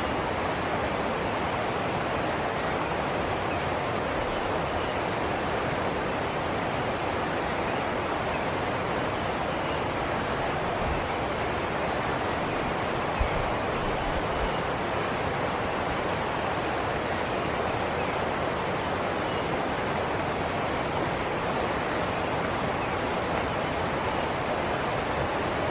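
Forest stream flowing with a steady rushing sound, while small birds chirp high and often over it. A single brief low thump about halfway through.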